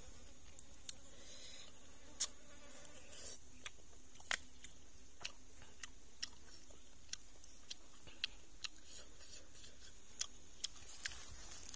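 Close-up mouth sounds of a person eating grilled river shellfish: chewing with sharp, wet smacking clicks at irregular intervals, about one a second, the loudest about two seconds in.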